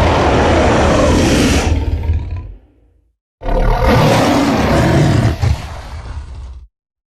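Acrocanthosaurus dinosaur roar sound effects. One roar fades out about two and a half seconds in, and after a short silence a second roar lasts about three seconds, dropping off in its last second before it cuts off.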